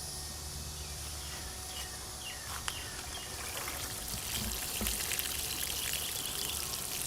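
Water pouring and trickling onto garden soil as a plant is watered, over a steady hiss of insects, growing a little louder about four seconds in.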